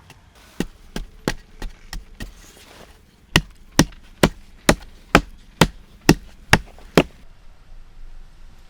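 Axe chopping wood: a few lighter strokes, then a steady run of nine hard strokes about two a second.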